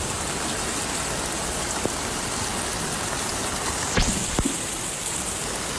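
Steady hiss of heavy rain over rushing muddy floodwater, with a couple of sharp knocks about four seconds in.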